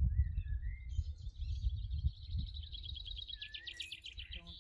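A songbird singing a long trill of rapid repeated high notes that grows louder towards the end, with a few short whistled glides, over a steady low rumble.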